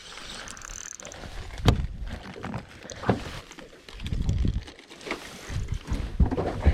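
Fishing reel and rod gear working while a bass is played on light tackle: mechanical reel noise, low handling rumbles and a few sharp knocks against the boat.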